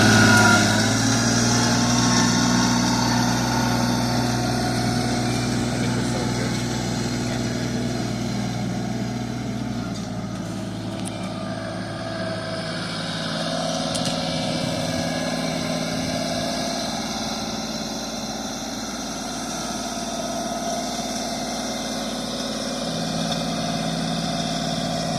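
Tractor engine running steadily, its note shifting a few times as the engine speed changes.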